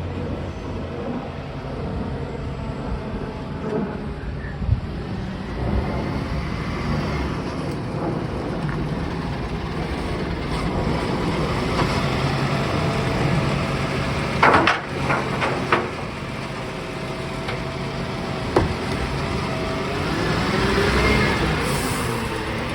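Garbage truck running steadily, with a quick cluster of sharp knocks about two-thirds of the way through and a single knock a few seconds later. The engine swells briefly near the end.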